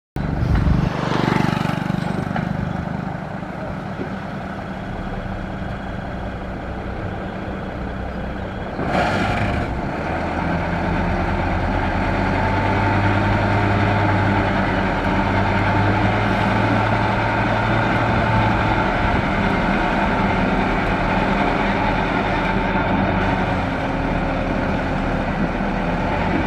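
Heavy dump truck's diesel engine running steadily, with a short sharp noise about a second in and another about nine seconds in, after which the engine runs louder.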